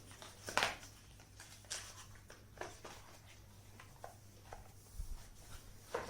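Scattered light clicks and rustles of hands handling small unboxing items and packaging, about eight separate taps, over a faint steady low hum.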